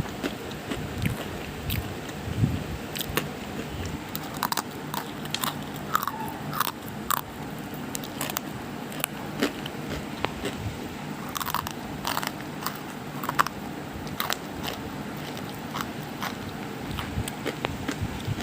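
Irregular close-up crunching and crackling clicks, a few sharp snaps ringing briefly, over a steady low hum.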